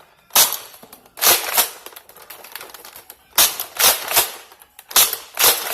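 A clear Nerf Deploy foam-dart blaster being primed and fired again and again through a chronograph barrel: about nine sharp plastic clacks and spring shots in uneven clusters.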